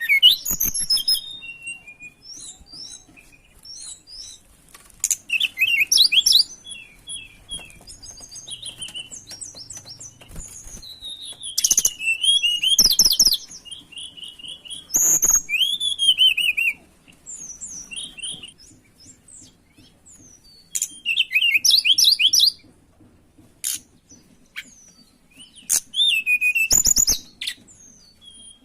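A tledekan gunung singing: loud bursts of rapid, high chirping and twittering phrases about every five seconds, with quieter scattered calls in between.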